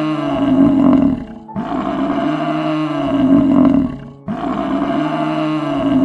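A large animal's long, deep calls, one after another, each about two and a half seconds long with short gaps between them.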